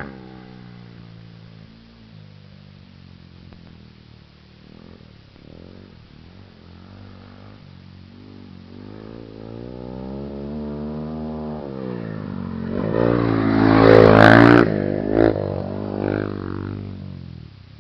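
Motocross bike engine revving up and down as it rides the track, faint at first, then growing louder and passing close about 13 to 15 seconds in before fading away.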